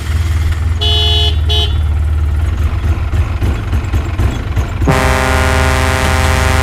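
Truck engine running with a steady low rumble while the horn gives two short toots about a second in, then a long, held blast starting near the end.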